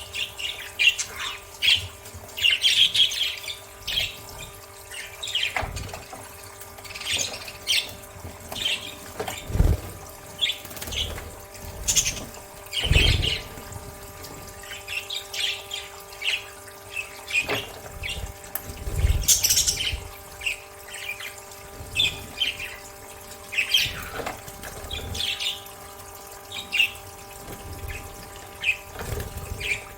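Budgerigars chirping and chattering continuously while bathing, with water splashing. There are three louder splashes about a third of the way in, near the middle and about two thirds of the way in.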